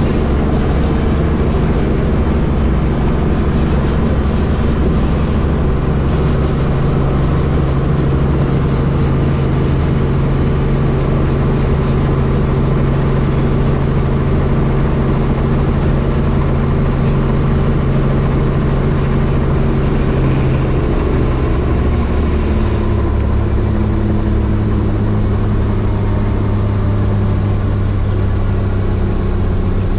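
Helicopter running with a loud, steady hum of rotor and engine. About two-thirds of the way through, the pitch drops a little and settles at a lower steady tone.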